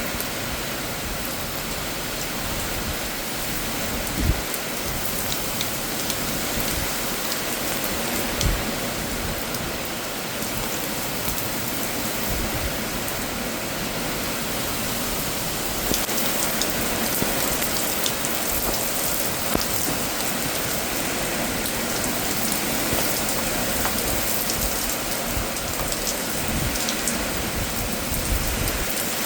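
Heavy rain falling steadily during a severe thunderstorm, pattering and splashing on surfaces, growing a little heavier about halfway through. A couple of sharp knocks stand out, near 4 and 8 seconds in.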